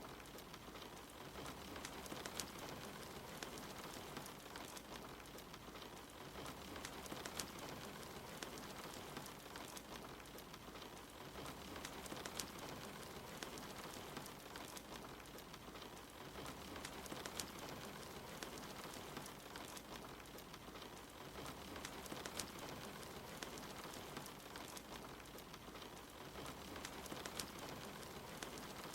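Steady soft rain mixed with a crackling fireplace, its small pops and snaps scattered irregularly over a constant hiss.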